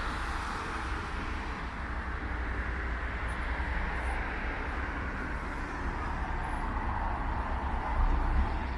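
Steady outdoor traffic noise, a continuous hiss and rumble that swells slightly near the end.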